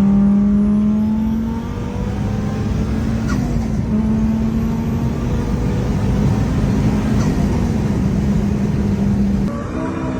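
Fiat Marea engine heard through a straight-pipe exhaust, running loud at steady revs with a brief dip in pitch about three seconds in and again about seven seconds in. Near the end the sound changes abruptly to a lower, different engine note.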